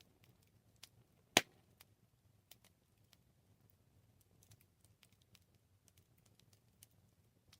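Campfire burning, wood crackling with scattered small pops and one loud sharp crack about a second and a half in, over a faint low rumble of the flames.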